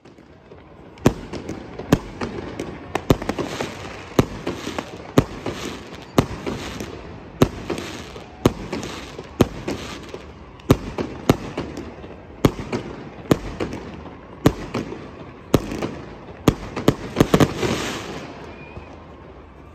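Aerial fireworks going off overhead: a long string of sharp bangs, roughly one a second and sometimes in quick clusters, over a continuous crackling rumble, thinning out near the end.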